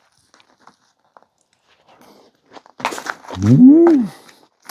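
A person eating a mouthful of food, small mouth clicks and a quick bite and slurp, followed by one loud, drawn-out 'mmm' of enjoyment that rises and falls in pitch.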